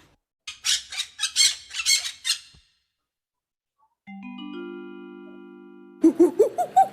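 Recorded parrot squawking, a quick run of about seven shrill calls, followed after a pause by a short mallet chime of notes struck one after another and ringing out.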